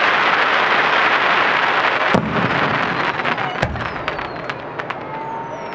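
Aerial fireworks bursting: a dense crackling of many small reports, then two sharp booms of shells exploding, about two and three and a half seconds in, and thin high whistles falling in pitch near the end.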